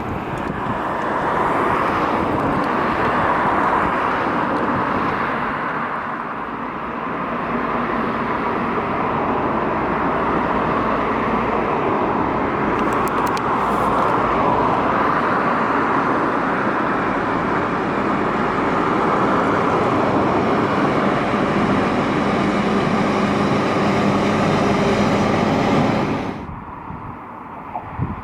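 A train passing close by: a loud, steady running noise with faint steady tones through it, cutting off suddenly near the end.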